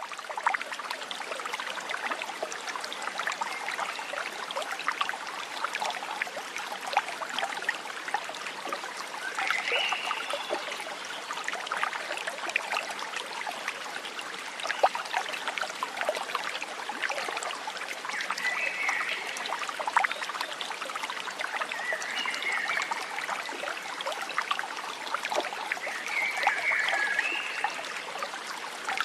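Forest stream trickling and splashing steadily, with a few brief bird chirps scattered through it.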